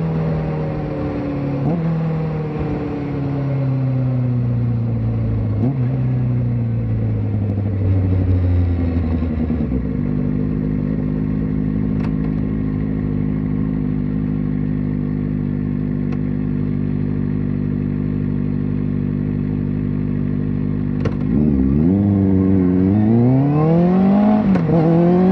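Kawasaki ZX-4RR's 399 cc inline-four, through a slip-on exhaust, winding down from high revs with two short blips. It settles to a steady idle for about ten seconds. Near the end it revs up sharply, dips once at a gear change and climbs again as the bike pulls away.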